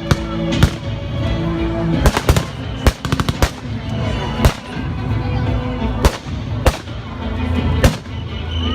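Blank gunfire from a staged WWII battle: single rifle shots at irregular intervals, with a short rapid machine-gun burst about three seconds in.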